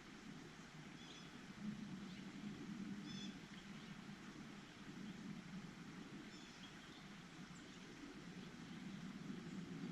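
Small birds giving a few faint, short high chirps, spaced a second or more apart, over a steady low rumble.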